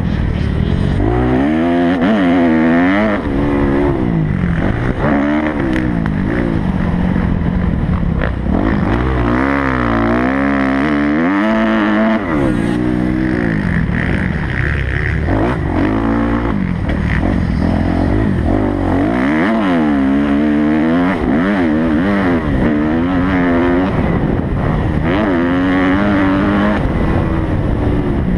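Kawasaki motocross bike engine revving hard through a lap, its pitch climbing and dropping again and again as the rider accelerates, shifts and backs off for jumps and corners.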